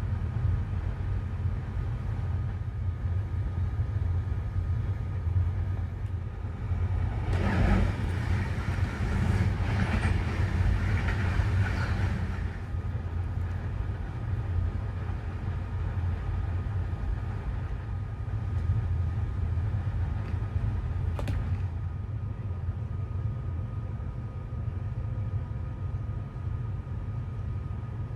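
Moving MÁV passenger train heard on board: a steady low running rumble. A louder rushing stretch comes about seven seconds in and lasts around five seconds, and there is a single sharp click about 21 seconds in.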